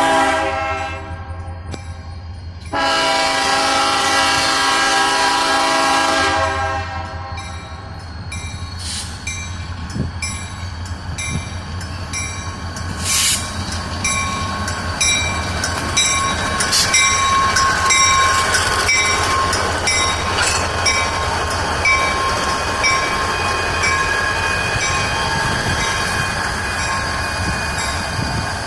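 Diesel freight locomotive sounding its multi-chime air horn, a short blast and then a longer one of about four seconds. The train then rolls past with a steady engine drone, wheel squeal and occasional clanks from the cars.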